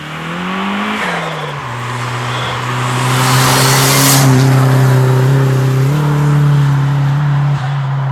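Turbocharged Nissan Pulsar ET hatchback's engine revving and accelerating. Its pitch rises and falls in the first second, and a loud rushing swell peaks about three to four seconds in.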